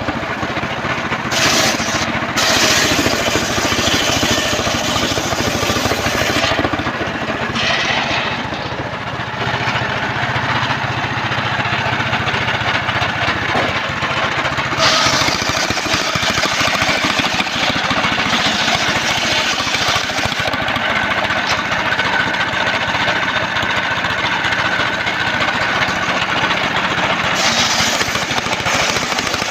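Engine-driven homemade circular sawmill running and ripping a trembesi (rain tree) log, a loud continuous mechanical noise whose tone shifts as the cut goes on. A thin steady whine joins in for several seconds in the second half.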